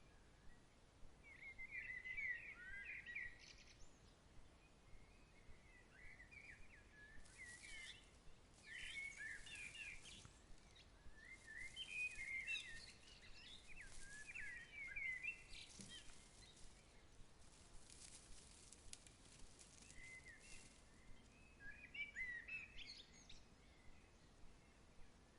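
A songbird singing in bouts of quick, twittering chirps over a faint, steady outdoor hiss. Through the middle there are also soft, light clicks.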